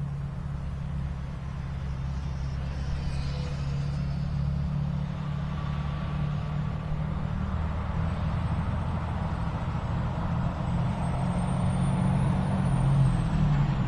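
Steady low rumble of wind on the microphone, with the faint high whine of a remote-control plane's motor that rises in pitch and then drops away near the end.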